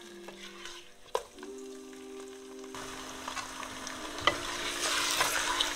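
Onions and raw chicken pieces frying in oil in a nonstick pot, stirred with a spatula that clicks and scrapes against the pot. The sizzle grows louder in the second half.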